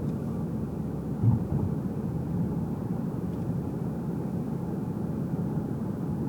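Car interior noise while driving: a steady low rumble of road and engine sound heard from inside the cabin, with one brief thump about a second in.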